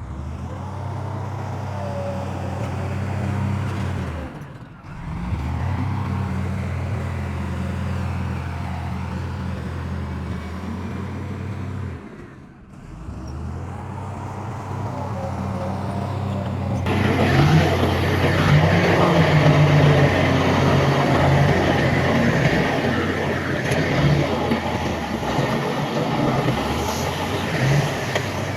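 Heavy earthmoving machinery's diesel engine running steadily, with two brief drops. About two-thirds of the way through, a louder, rougher clattering noise joins over the engine.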